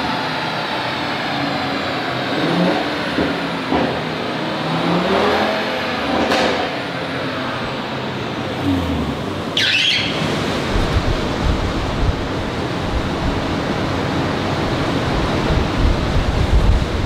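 Audi RS3 2.5-litre turbocharged five-cylinder engine running on a chassis dyno, its revs rising and falling. About ten seconds in there is a sharp hiss, after which the engine runs louder and heavier under load.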